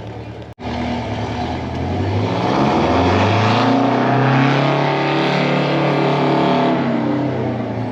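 A car or truck engine driving past, its pitch climbing as it accelerates for a couple of seconds, then holding steady before easing off and fading near the end. The sound cuts out for an instant about half a second in.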